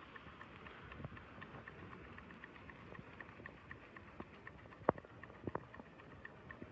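Small model steam engine running on its first run, giving an even, fast, faint ticking beat, with a few sharper clicks about two thirds of the way through.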